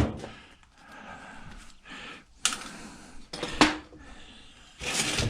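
Needle-nose pliers clicking and scraping against metal while a stuck magnet is worked loose. There are sharp clicks about two and a half seconds in and again a second later, then a longer scrape near the end.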